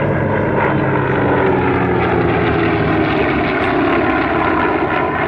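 Propeller-driven warbird's piston engine running loudly as it flies in display, a steady engine-and-propeller note with slight shifts in pitch.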